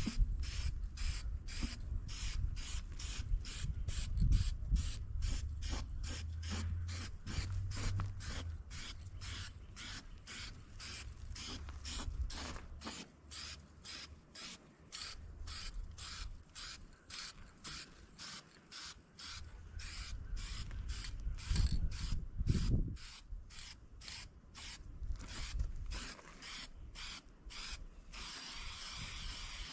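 Aerosol spray-paint can shaken steadily, its mixing ball rattling about two to three times a second, then a steady hiss of spraying near the end.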